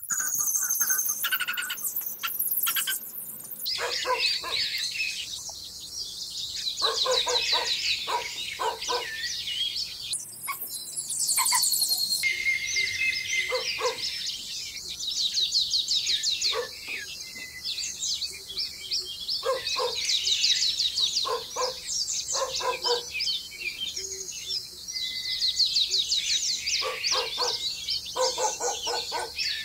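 Birds chirping and calling, with rapid high trills and short repeated notes throughout.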